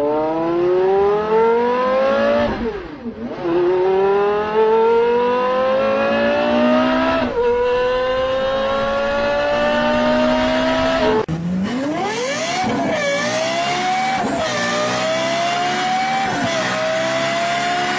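High-revving V10 sports car engine accelerating hard through the gears: its pitch climbs steadily and drops sharply at each upshift, three times in the first eleven seconds. After that it revs up and eases off several times.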